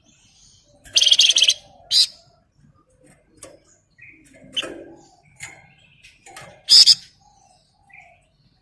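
A flamboyan songbird singing in short separate bursts. The loudest is a rapid, dense rattling trill ('ngebren') about a second in, followed by a sharp phrase near the end, with fainter chirps and whistles in between.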